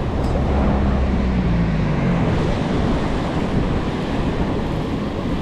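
Steady rushing of fast river water tumbling over falls.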